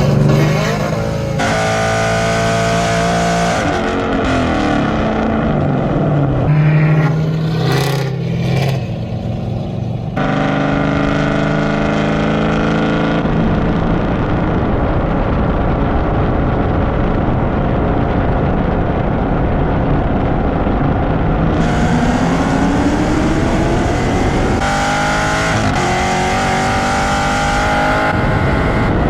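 High-performance cars accelerating hard at full throttle, their engine notes rising through the gears, in several clips that cut abruptly from one to the next.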